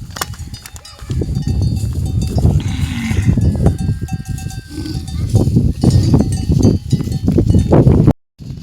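Livestock bells clanking over a heavy, gusty low rumble on the microphone. The sound cuts out for a moment near the end.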